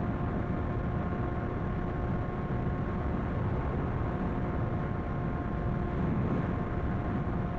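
Sportbike riding at a steady speed: an even engine drone at constant revs under a rush of wind and road noise, with no change in pitch.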